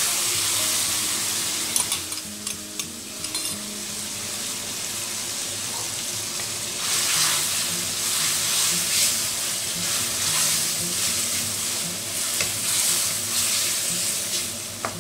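Curry paste sizzling as it hits a hot wok of frying vegetables, then stirred with a wooden spatula. A steady sizzle with a few knocks of the spatula against the pan about two to three seconds in. Later the sizzle swells in pulses with each stroke of the stirring.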